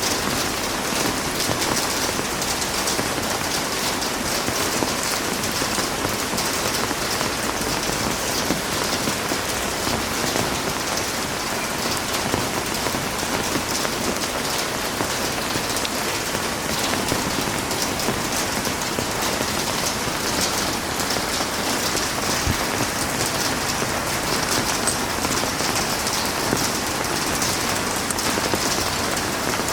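Heavy rain falling steadily on a surface, a dense, unbroken patter.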